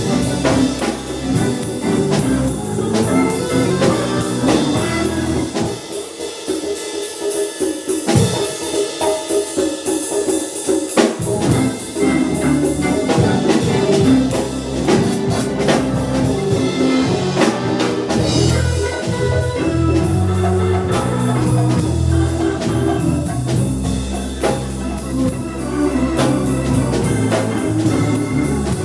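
Live band playing an instrumental, jazz-flavoured tune with organ and drum kit. The low bass line drops out for about five seconds, then comes back in.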